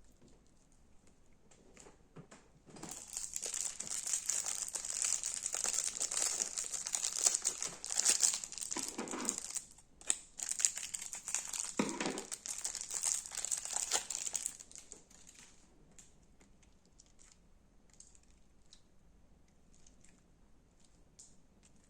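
Crunchy slime being squeezed and worked: dense crackling and popping for about twelve seconds, with a brief break near the middle, then only faint scattered clicks.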